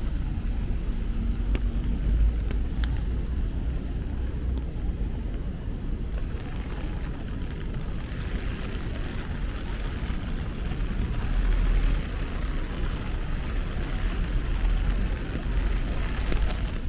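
Steady rain on a city street, a hiss that thickens about halfway through, over a constant low rumble of traffic.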